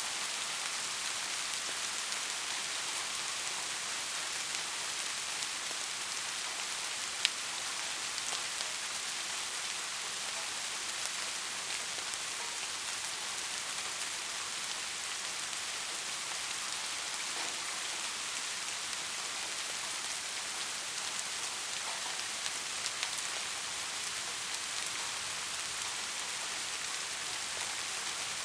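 Steady rain falling, an even hiss with scattered faint drop ticks, and one sharp tick about seven seconds in.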